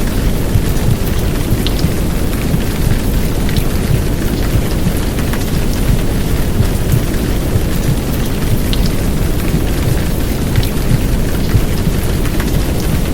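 Heavy downpour rain layered over a low, muffled womb-sound rumble, forming one steady, loud wash of noise with scattered drop ticks.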